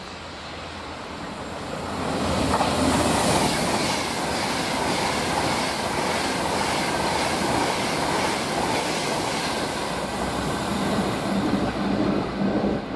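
Avanti West Coast Class 390 Pendolino electric train passing at speed, its wheels on the rails and a rush of air swelling about two seconds in and then running steadily.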